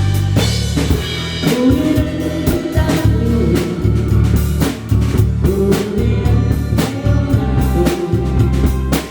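Drum kit played to a song, keeping a steady beat with bass drum and snare strokes under a bass line and a singing voice.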